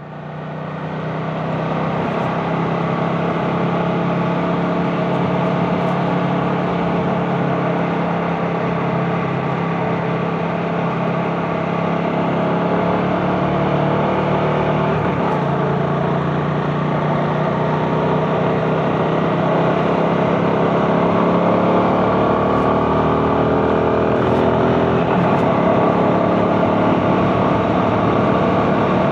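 CF Moto 250NK single-cylinder motorcycle engine running while riding, fading in at the start and then holding a steady note, its pitch rising and falling gently with the throttle in the second half.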